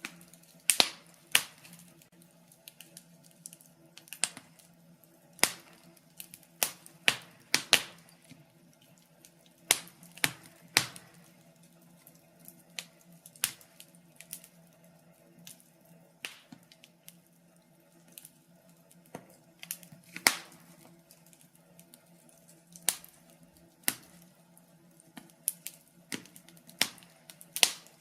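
Logs burning in a fireplace, crackling with irregular sharp pops, sometimes two or three in quick succession, over a faint steady low hum.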